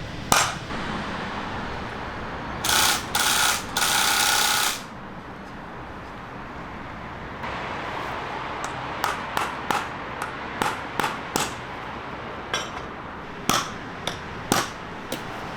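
Hammer blows on metal during heavy-truck repair. A sharp knock comes near the start, then three loud noisy bursts of about two seconds in all. In the second half comes a run of about a dozen sharp, irregular strikes, roughly two a second.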